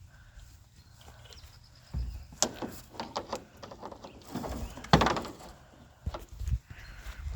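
Irregular knocks and clunks of tools and parts being handled while working on the back of a pickup truck, the loudest about five seconds in.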